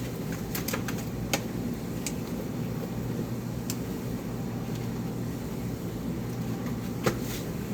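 Steady low machine hum, with a few light clicks and taps scattered through it, about five in all.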